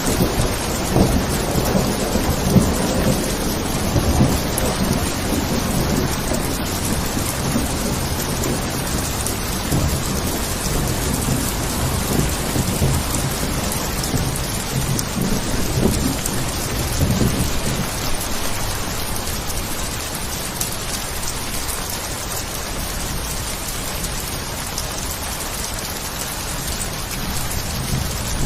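Steady heavy rain with thunder rumbling low underneath; the rumble eases in the last third while the rain hiss carries on.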